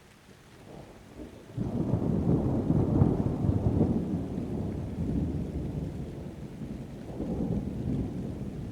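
A thunderclap in a rainstorm: a low rumble builds about a second in, breaks loud at about a second and a half, and rolls on, fading, then swells again near the end. Rain runs under it.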